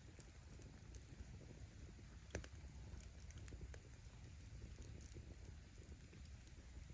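Faint wood fire crackling: a low, steady rumble of flames with scattered small pops from the burning firewood, and one sharper crack a little over two seconds in.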